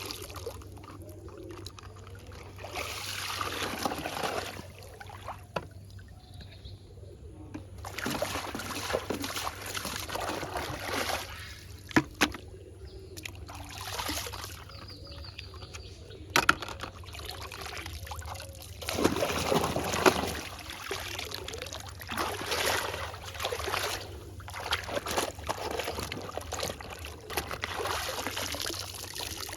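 Water being poured and trickling, in uneven spells, with a few sharp clicks and knocks.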